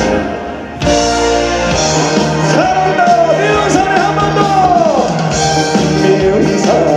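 Live trot music: a band playing with a male voice singing the melody. The sound dips briefly near the start, then the full band comes back in just under a second in.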